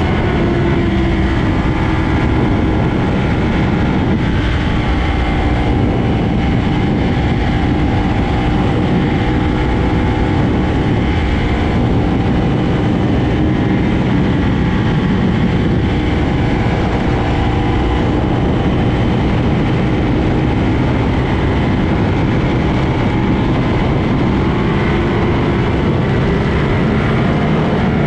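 Sport motorcycle engines running at a steady high cruise on the highway, a held drone whose pitch wavers only slightly, under a constant loud rushing noise. There are no sharp revs or gear changes.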